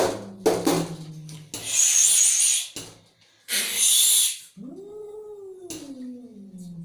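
Angry cat hissing and yowling. A low yowl runs into two sharp spits, then two loud hisses of about a second each. Near the end comes a long drawn-out yowl that falls in pitch.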